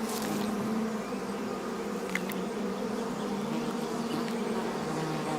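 A swarm of bees buzzing steadily around a honey buzzard raiding their nest, a dense, continuous hum.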